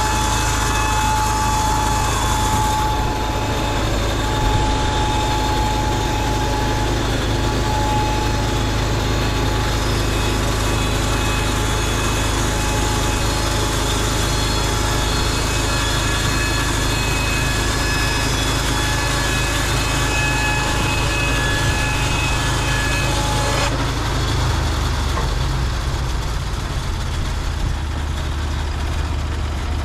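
Portable band sawmill running under load, its engine humming steadily beneath a steady whine from the band blade cutting. About 24 seconds in, the whine and hiss stop and the engine note changes.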